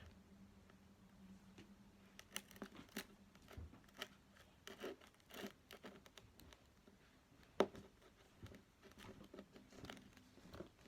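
Edible slime being mixed with water: faint, scattered sticky clicks, scrapes and crackles, with one sharper click about seven and a half seconds in.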